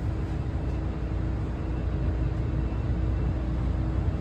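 Steady low rumble and hum inside an NJ Transit passenger car standing at a station, with one steady tone held through it.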